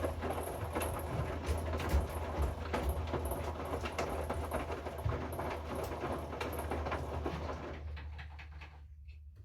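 Hoover washing machine running, its drum turning with a low hum and a steady clatter of the load, the sound dying away near the end as the drum comes to a stop.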